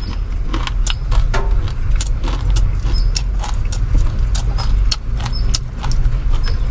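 Dry, uncooked instant noodles being crunched and chewed close by, a run of irregular sharp crunches, over a steady low rumble inside a parked car.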